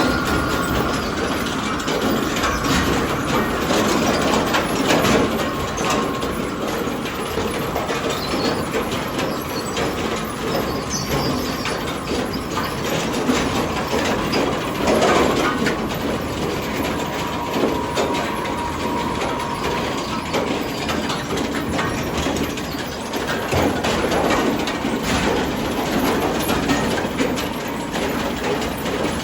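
Sawmill log conveyor running, a steady mechanical rumble with irregular clattering and knocks throughout.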